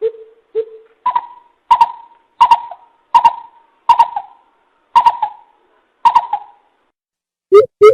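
Greater coucal calls: a slow series of short, hollow hoots, about nine of them spaced well under a second apart, the first two lower and the rest higher. Near the end a quicker, even run of lower hoots starts.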